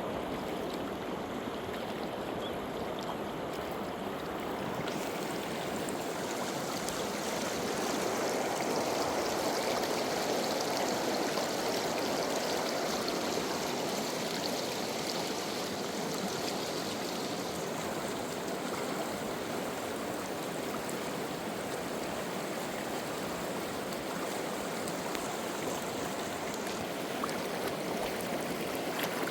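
River water flowing steadily in a continuous rush, swelling a little partway through.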